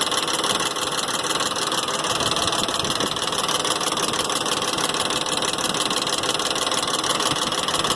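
2001 Ford Expedition's V8 idling with a rapid, steady tapping from the passenger-side cylinder head. The owner takes it for an exhaust manifold leak, but the tapping comes from failed hydraulic lash adjusters.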